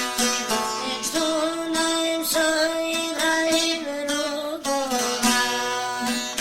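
Albanian folk song: a young singer holding long, steady notes over a rhythmically plucked string instrument.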